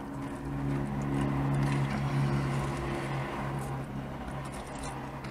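A motor vehicle's engine running close by: a low, steady hum that swells for a couple of seconds and then fades away, over a constant low rumble.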